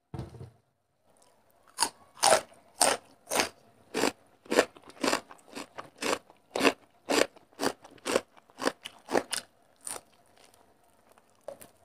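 Close-miked crunching of crisp fried katla fish being bitten and chewed, a sharp crunch about twice a second that stops about two seconds before the end.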